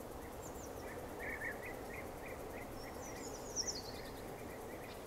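Outdoor bird ambience over a steady background hiss: a run of short repeated chirps, then a higher trill falling in pitch about three seconds in.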